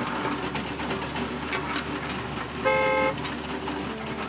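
A vehicle-engine sound effect runs steadily as the toy bulldozer drives off. A horn beeps once, briefly, a little under three seconds in.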